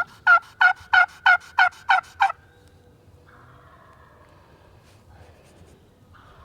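A run of eight loud turkey yelps, evenly spaced at about three a second and lasting a little over two seconds.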